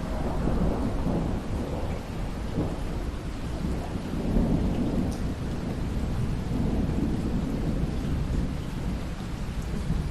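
Rain falling steadily with a long roll of thunder that swells up at the start and rumbles on, fading slowly toward the end.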